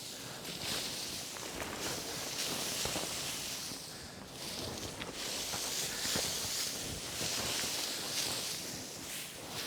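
Footsteps crunching through fresh, fluffy snow, in an uneven series of steps.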